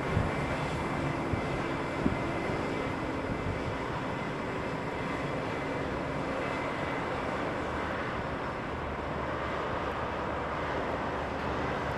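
Aircraft engines running steadily: an even rushing noise with a faint, steady high whine, the level holding constant.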